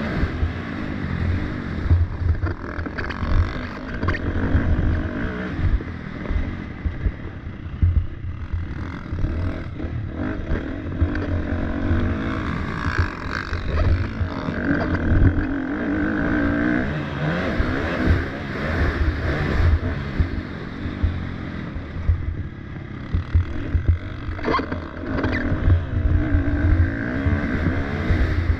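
Motocross dirt bike engine revving up and down over and over as it is ridden hard, with heavy low rumble beneath.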